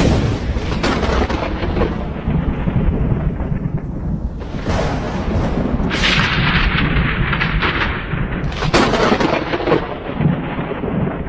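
Loud, thundering rumble under a car that swells several times, which the driver took for the exhaust muffler falling off and being dragged along the road.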